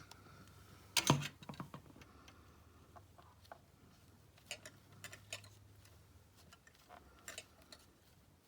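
Scattered clicks and knocks of a hand crafting tool and paper being worked on a tabletop, the loudest cluster about a second in, then a few lighter clicks.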